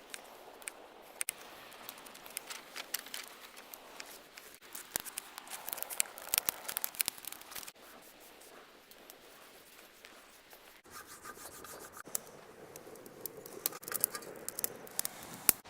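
Hands handling camp cooking gear and food: rubbing and scraping with scattered sharp clicks and taps, thickest about a third of the way in and again near the end.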